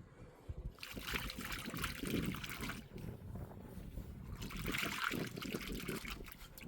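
Water being poured or trickling in two spells of about two seconds each, with a short pause between.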